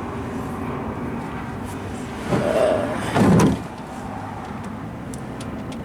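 Old engine oil pouring in a steady stream from the oil pan drain into a catch pan during an oil change. A brief squeak and a louder clunk break in between about two and three and a half seconds in.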